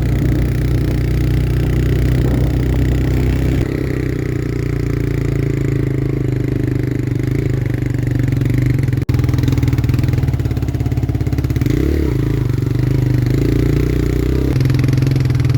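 Motorcycle engine running steadily, with a brief rev that rises and falls about twelve seconds in.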